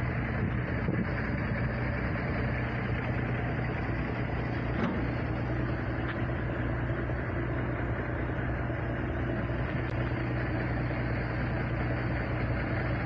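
Steady engine and road noise inside a moving vehicle's cab, an even low hum at a constant level.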